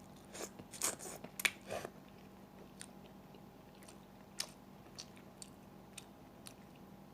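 Close-up eating sounds: chewing with short wet clicks and smacks of the mouth, several in the first two seconds, then scattered every half second or so.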